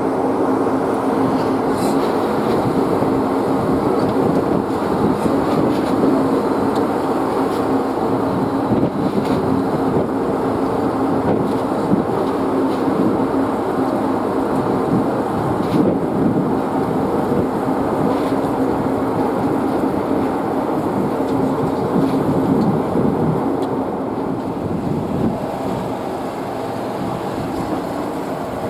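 A vehicle engine running steadily: a constant low hum under a rushing noise, easing slightly in the last few seconds.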